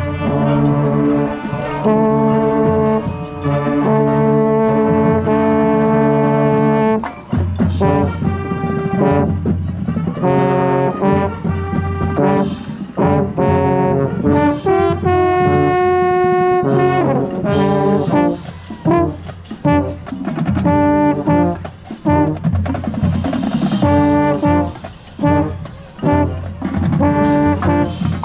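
A marching band's brass section playing, with low brass close to the microphone: long held chords for the first several seconds, then a run of shorter, separated notes with a held high note near the middle.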